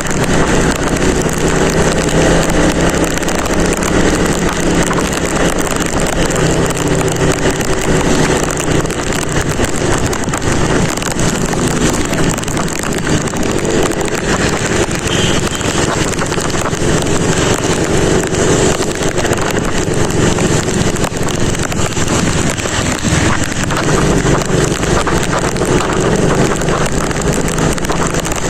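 Motorcycle engine running at riding speed, mixed with heavy wind noise on the microphone; the sound is a steady, dense rush with the engine's hum shifting slightly as speed changes.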